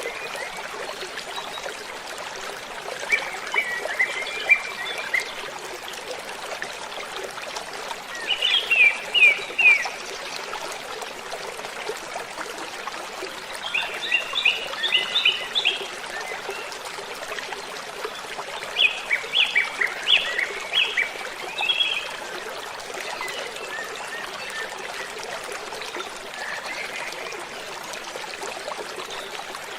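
Steady rush of falling water from a waterfall, with a songbird singing short phrases of quick repeated chirping notes about every five seconds. The bird phrases are the loudest sounds.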